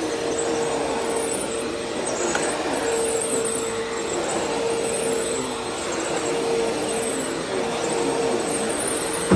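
Vacuum cleaner running steadily, a constant motor hum over the rush of air.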